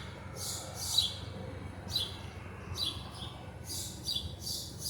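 Small birds chirping: short, sharp high calls repeated about once a second, some in quick pairs, over a low steady rumble.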